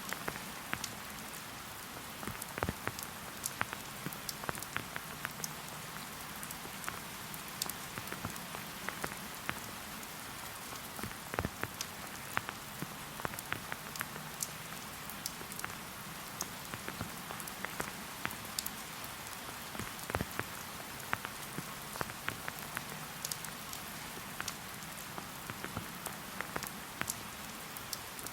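Steady rain falling through a forest, a constant hiss with many individual drops ticking close by.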